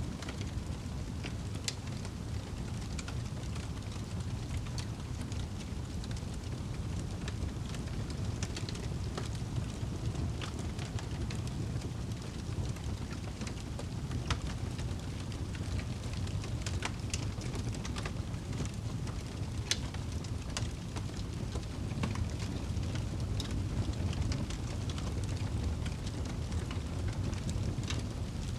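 Wood fire crackling, with scattered sharp pops and snaps at irregular moments over a steady low rumble of flame.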